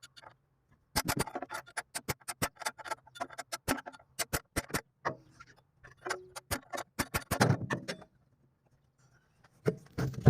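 Hand tools on the engine, giving a run of sharp, irregular metallic clicks and clinks for several seconds, then stopping.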